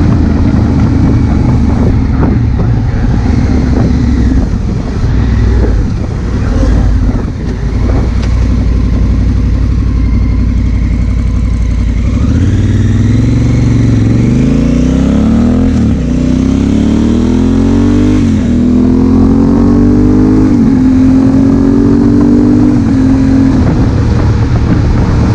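Honda Africa Twin CRF1000L's parallel-twin engine running under way, with wind rushing over the helmet-mounted microphone. About halfway through it accelerates hard, the pitch climbing and dropping back at four upshifts, then holding steady near the end.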